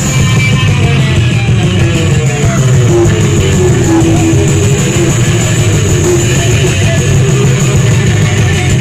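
A rock band playing loud, distorted heavy rock music with plucked string instruments.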